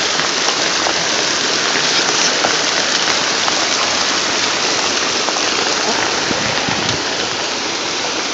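Torrential rain pouring down steadily onto a flooded street, a dense even hiss of rain on water and pavement.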